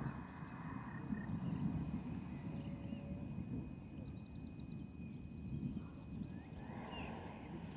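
Outdoor storm ambience: a steady, fluctuating low rumble with birds chirping briefly over it and a thin steady high tone in the background.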